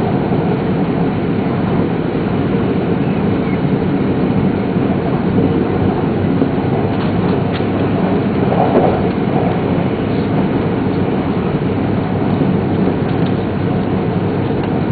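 Shinkansen high-speed train running at speed, heard from inside the passenger car: a steady, even running noise from the wheels and rails, with a slight swell about eight and a half seconds in.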